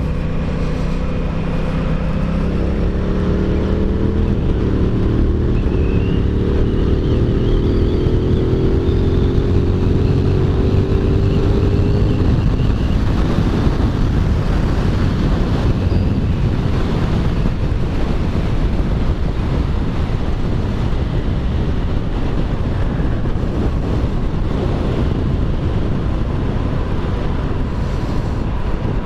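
Aprilia Tuono 660's parallel-twin engine pulling hard under acceleration, its note climbing for about the first twelve seconds, after which wind rush at speed drowns the engine out.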